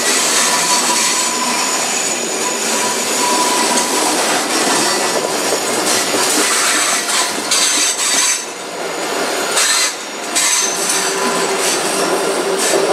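ICE high-speed train rolling slowly past on curved station track: a steady rush of wheel and running noise with a thin wheel squeal over the first few seconds and a few clacks over the rail joints and points.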